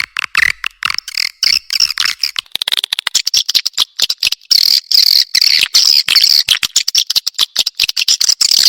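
Swiftlets twittering in a dense stream of rapid high chirps and clicking trills. The chirps come in broken runs at first and thicken into an almost unbroken twitter about three seconds in. This is a swiftlet call recording (suara panggil) of the kind played to lure swiftlets into a nesting house.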